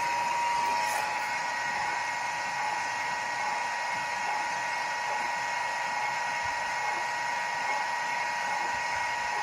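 Explosion-proof 5.5 kW, 1450 rpm AIMM112M4U3 three-phase induction motor running steadily at speed: an even whine with a high steady tone over a rushing hiss.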